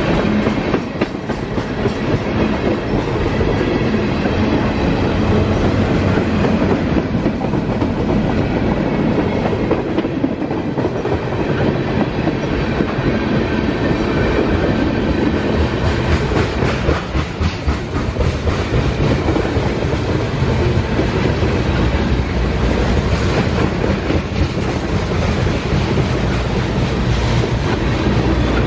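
Freight train cars rolling past at close range, first tank cars and then covered hoppers: steel wheels on rail making a steady loud rolling noise with repeated clicks as wheel sets cross rail joints.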